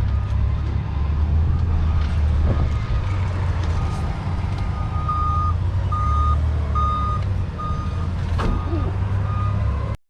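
A truck's reversing alarm beeps about one and a half times a second over a diesel truck engine running steadily. The beeps grow clearer from about halfway, and a few short knocks sound along with them.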